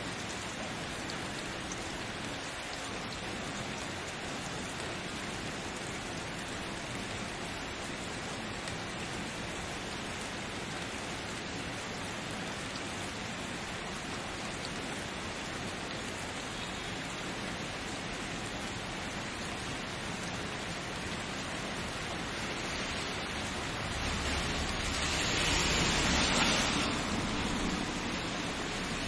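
Steady rain hiss, swelling louder for a few seconds near the end with a low rumble underneath.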